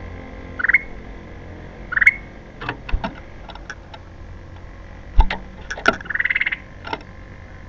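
Kutilang emas (golden bulbul) calling: two short upward chirps early on, then a longer harsh, pulsing rattle call near the end, with a few sharp clicks in between.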